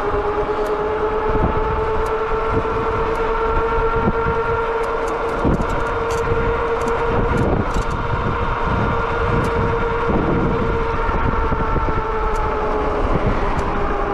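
Cyrusher XF900 fat-tyre e-bike riding on asphalt, giving a steady whine that holds nearly level in pitch, with wind rumbling on the microphone.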